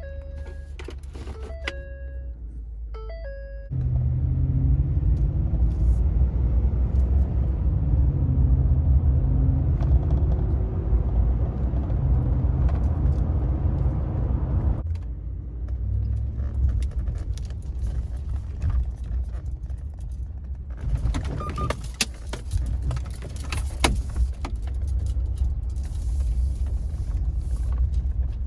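Ford F-150 pickup heard from inside the cab while driving: a steady low engine and road rumble that comes in suddenly about four seconds in, with scattered clicks and rattles in the second half. Before the rumble, a few short pitched notes sound.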